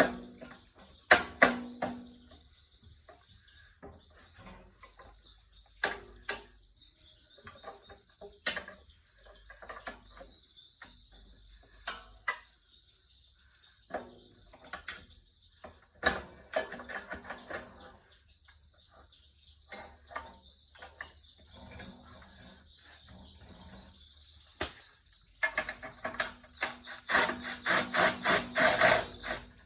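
Hand tools and bolts clinking and knocking against metal as an engine is bolted onto a rototiller frame: scattered single knocks, then a fast run of clicks near the end. A faint steady high whine sits underneath.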